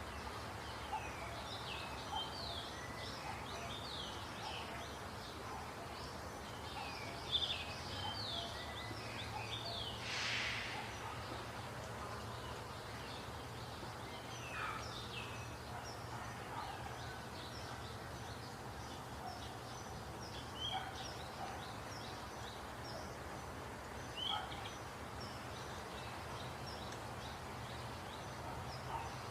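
Small birds chirping repeatedly in short, quick downward notes over a steady low hum, with a brief hiss about ten seconds in.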